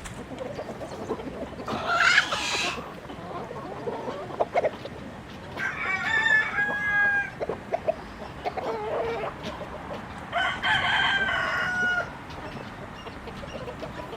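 Chickens: a rooster crowing twice, long drawn-out calls about six and ten seconds in, with a shorter loud call about two seconds in and hens clucking in the background.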